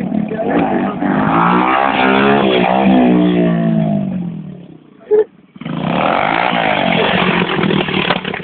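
Motocross dirt bike engine revving hard, its pitch falling as it fades away. About five seconds in there is a brief loud thump, and then the engine comes back, revving up again.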